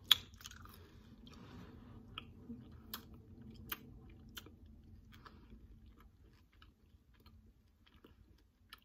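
A person chewing a Skittles candy with the mouth closed: scattered soft clicks and smacks that thin out over the last few seconds.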